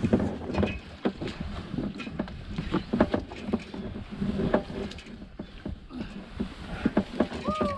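Irregular knocks, scuffs and squelches as a kayak is hauled through deep mud, with a short falling voice sound near the end.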